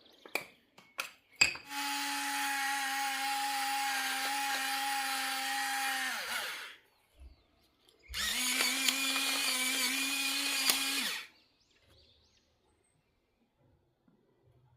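A small electric kitchen appliance motor run twice, about five seconds and then about three, each time spinning up to a steady whine and winding down as it is switched off. A few sharp clicks come just before the first run.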